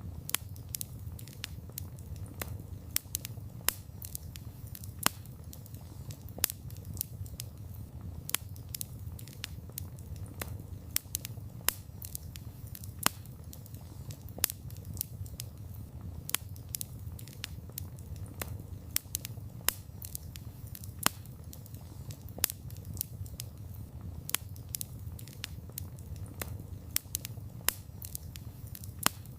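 Wood campfire burning, with irregular sharp crackles and pops, several a second and now and then a louder snap, over a steady low rumble.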